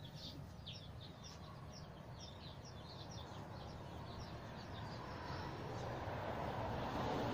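Small birds chirping, a quick series of short high chirps a few times a second that fade out after about five seconds. Under them is a steady hiss that grows louder near the end.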